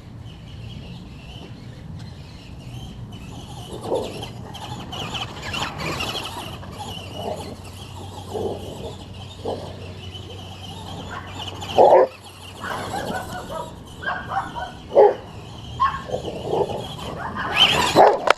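Dogs barking in short, repeated barks that come closer together in the second half, the loudest about twelve and fifteen seconds in. Beneath them runs a steady high whine from the Traxxas Stampede RC truck's electric motor.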